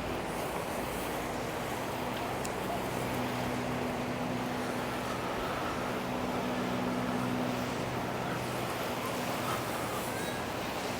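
Surf washing ashore as an even hiss, with wind on the microphone and a steady low engine hum that swells in the middle and eases toward the end.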